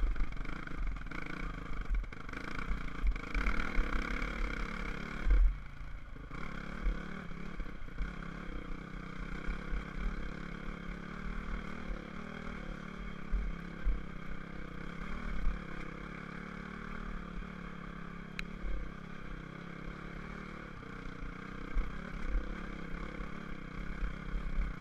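Dirt bike engine running steadily while riding, with wind buffeting the microphone. The engine eases off briefly about six seconds in, then picks up again.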